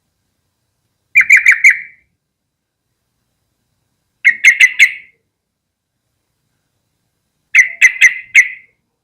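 Yellow-vented bulbul calling: three short bursts of about four quick, clipped notes each, roughly three seconds apart.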